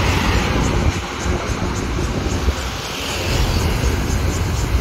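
Taiwan Railway electric train crossing an elevated railway bridge, a steady low rumble, mixed with street traffic below.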